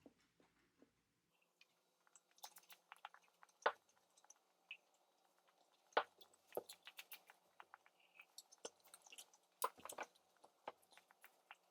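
Faint chewing with scattered small wet clicks and smacks, from a man eating chicken nuggets.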